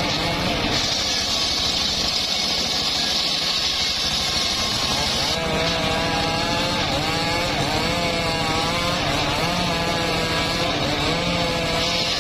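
Homemade engine-driven circular sawmill running under load as its blade rips an old, hard mahogany log. The engine's pitch sags and recovers through the cut. A high-pitched hiss of blade cutting wood comes in about a second in, drops out around five seconds, and returns near the end.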